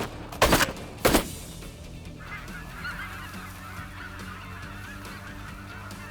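Three shotgun shots in about the first second, then a large flock of snow geese calling: a dense, continuous gabble of many honking voices.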